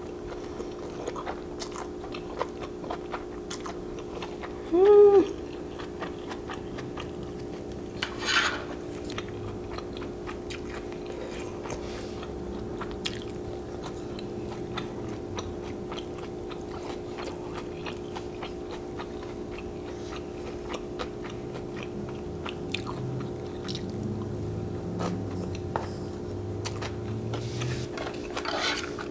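Close-up mouth sounds of a person eating glass noodles: wet chewing clicks and smacks, with a short slurp-like rush about eight seconds in and another near the end, over a steady background hum.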